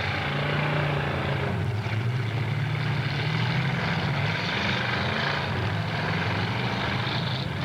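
Demolition derby cars' engines running and revving, a steady drone whose pitch shifts a little.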